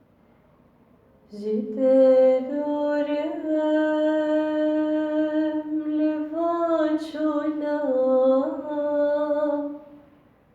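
Unaccompanied solo voice singing one long, wordless held phrase with a few ornamented turns in pitch. It starts about a second in and fades out near the end.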